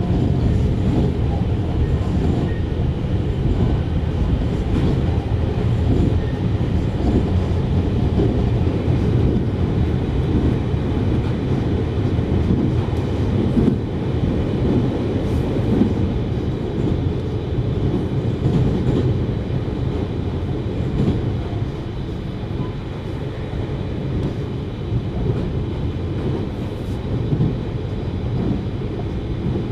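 JR Hokkaido 733 series electric train running at speed, heard from inside the car: a steady rumble of wheels on rail.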